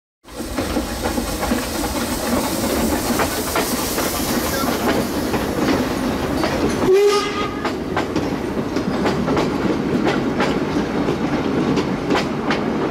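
Train running on jointed track: a steady rumble with the clickety-clack of wheels over rail joints, and a short horn blast about seven seconds in.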